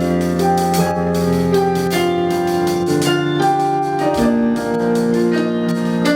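Electric keyboard playing sustained chords with a bass line, an instrumental lead-in to praise and worship.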